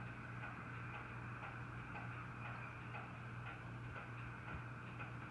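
Faint, regular ticking about twice a second over a low steady hum.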